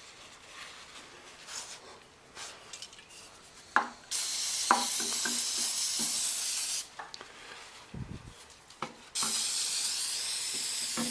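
Aerosol brake cleaner spraying onto a lawn mower carburetor to loosen dirt: two long sprays of hiss, the first about two and a half seconds long and the second starting near the end, with a few light clicks and knocks of handling between them.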